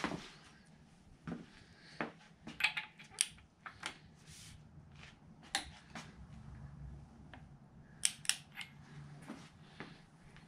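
Irregular clicks, clinks and knocks of small hard objects, tools and parts being handled and set down on a workbench, over a low steady hum.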